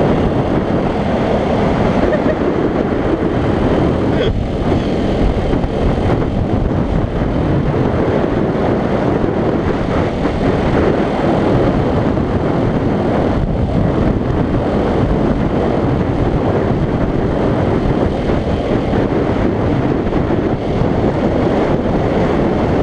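Heavy wind noise buffeting a GoPro microphone on a moving motorcycle: a steady, dense low rush that covers the engine.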